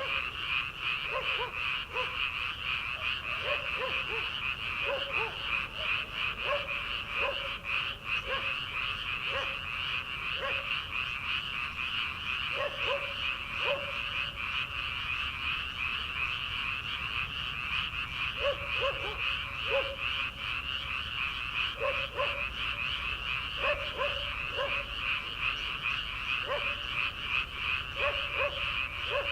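Chorus of many frogs calling from paddy fields: a dense, continuous high-pitched trilling, with lower croaks from other frogs coming in short runs of a few notes every few seconds.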